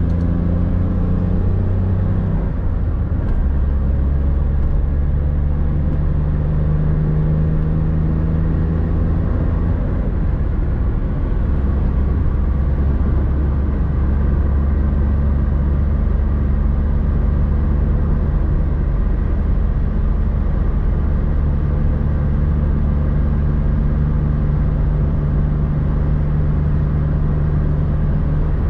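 Suzuki Swift III engine running, heard from inside the cabin at steady cruising speed, with tyre and road noise. The engine note shifts a couple of times in the first ten seconds or so, then holds steady.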